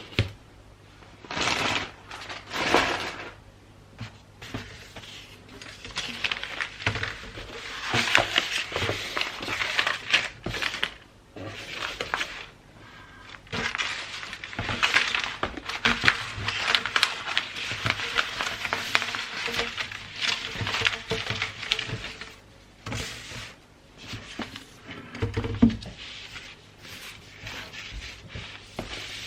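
Gift-wrapping paper being handled and folded, crinkling and rustling in irregular bursts with short pauses, with a light thump near the end.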